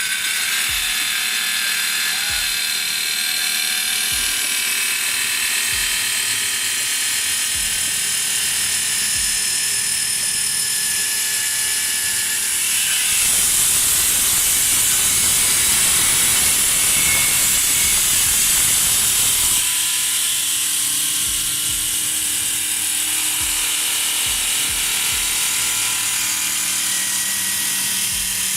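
Kong Sung KS-16H 450 mm cutoff saw running at 2,750 rpm with an iron-cutting blade, cutting through a large steel pipe: a steady, high-pitched cutting noise that grows louder for several seconds about halfway through, then eases back.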